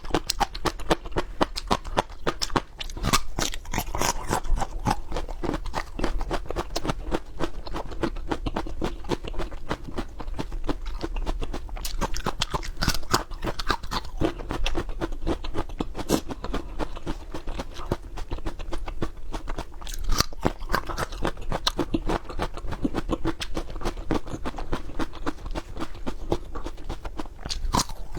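Crunchy chewing and biting of raw peppers heard close up: a continuous run of rapid crisp crunches and wet clicks.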